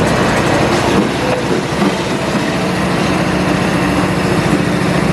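Amtrak GE P42DC diesel locomotive engine running, a loud steady drone with a fast low pulsing.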